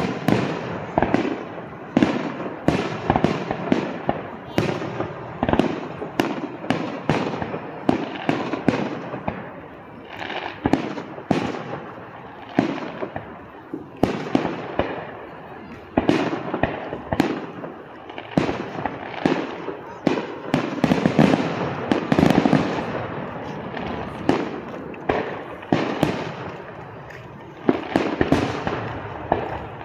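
Aerial fireworks shells bursting one after another, a dense run of sharp bangs each trailed by a rumbling echo, heaviest a little after the middle.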